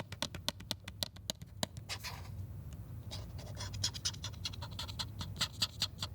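Close-miked ASMR tapping and scratching on Blu-ray packaging. Quick fingernail-like taps come first, then a short swish about two seconds in, then denser scratching and tapping.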